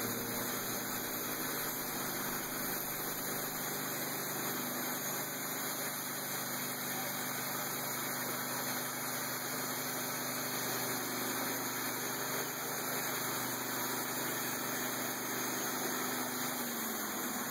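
Sawmill engine idling with a steady hum, its pitch sagging as it shuts down near the end.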